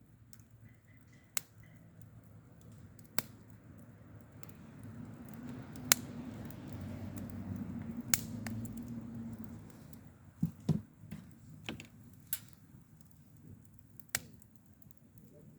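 Scattered sharp clicks and knocks, about nine in all, some in quick pairs near two-thirds of the way through. Under them a low noise swells in the middle and fades.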